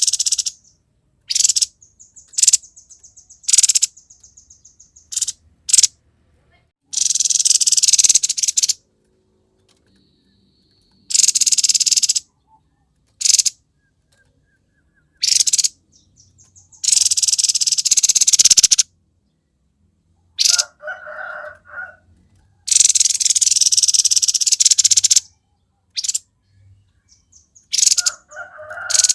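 Grey-headed babbler calling: a run of harsh, rasping bursts, each one to two seconds long, with short gaps between them, mixed with quick high trills early on and a few lower notes later.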